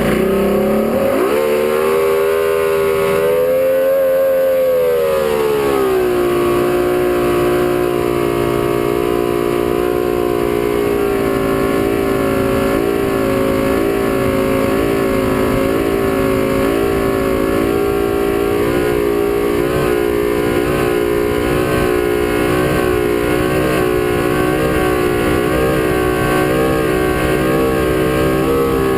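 Performance powerboat engine running hard: it revs up over the first few seconds, eases back about five seconds in, then holds a steady high-speed pitch with slight rises and falls.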